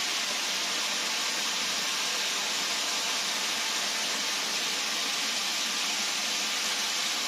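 Food sizzling steadily in a hot wok, an even hiss with no breaks.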